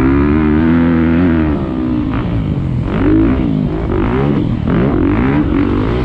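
Motocross bike engine revving hard, its pitch rising and falling with the throttle: held high for about the first second and a half, then several quick rises and drops.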